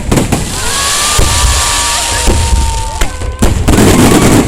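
Star mine fireworks barrage: several loud booms of bursting shells, with long steady whistling tones held through the middle and a dense crackle of bursting stars near the end.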